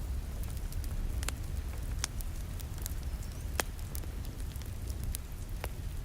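Wood fire crackling, with sharp pops every second or so (the loudest a little past halfway), over a steady low rumble and the patter of rain.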